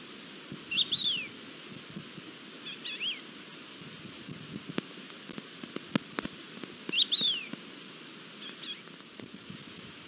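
A bird calls with short high chirps that fall in pitch, loudly about a second in and again about seven seconds in, each time followed by a fainter call, over a steady outdoor hiss. A few sharp clicks sound in the middle.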